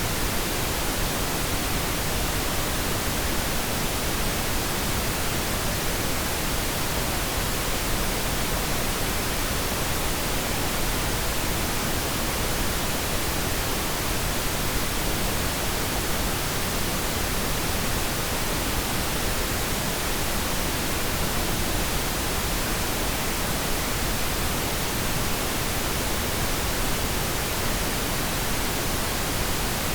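Steady, unchanging pink noise: an even hiss spread across all frequencies, with no events or variation, generated as a tinnitus masking sound.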